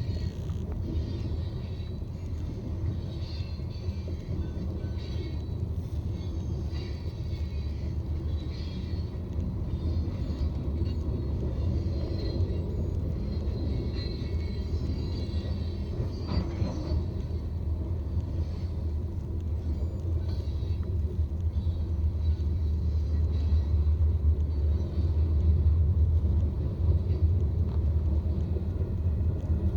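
Car driving along, a steady low road and engine rumble heard from inside the cabin, growing a little louder after about 20 seconds.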